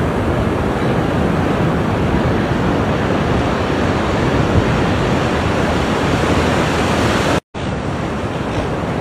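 Ocean waves washing on a shore: a steady rush of surf. It cuts out completely for a split second about seven and a half seconds in, then carries on a little quieter.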